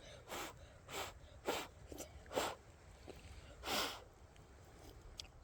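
Someone eating hot instant noodles: about six short, breathy slurps a second or so apart, the longest a little under four seconds in.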